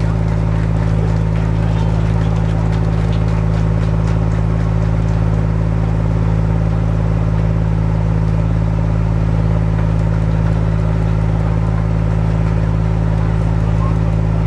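Diesel locomotive engine idling, a steady low hum that does not change.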